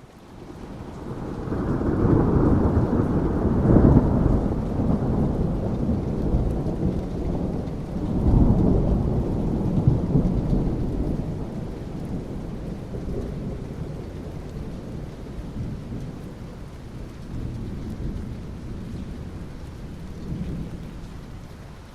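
Thunder rumbling over steady rain. A long rumble builds over the first two seconds and peaks about four seconds in, rolls up again around eight to ten seconds in, then eases into a low lingering rumble under the rain.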